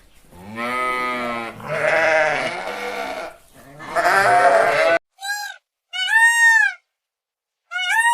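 A sheep bleating three long, wavering calls over about five seconds. After that come three short, high-pitched calls from another animal.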